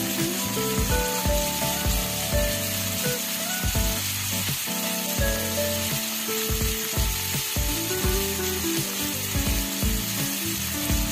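Chicken liver and green beans sizzling in a wok, a steady frying hiss, under background music with held notes and a regular beat.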